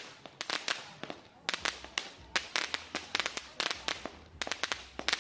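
A 100-shot firework cake firing: quick runs of sharp cracks and bangs, several a second, with brief lulls between the runs.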